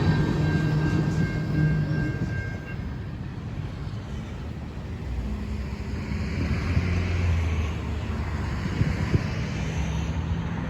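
A vehicle running: a steady low engine drone with a faint whine in the first two seconds, swelling again in the second half.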